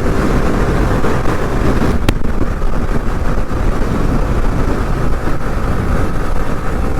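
Motorcycle riding noise picked up by a helmet-mounted microphone: steady wind rush with engine and road rumble underneath. A single sharp click about two seconds in.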